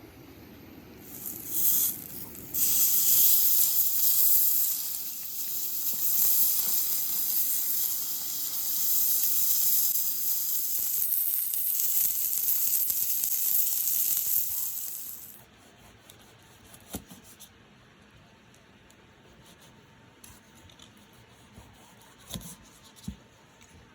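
Food sizzling in hot oil in a pan: a loud, even sizzle starts a couple of seconds in after two short spits and stops abruptly about fifteen seconds in. A few faint clicks follow.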